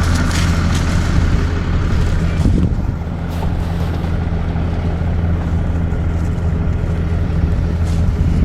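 A vehicle engine idling steadily with a low, even hum, with a few faint knocks over it.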